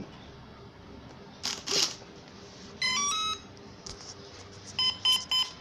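Brushless motor sounding a Hobby King 30 A ESC's power-up tones: a rising three-note chime about three seconds in, then three short equal beeps near the end, the ESC arming. A short scraping rustle comes before them, about a second and a half in.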